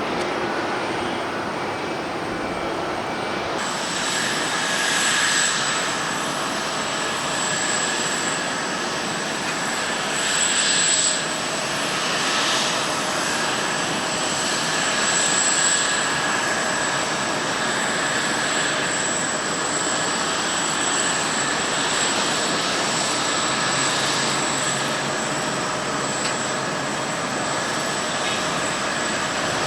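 Jet airliner engines running, a steady rush with a high, steady whine over it. The sound changes abruptly about three and a half seconds in.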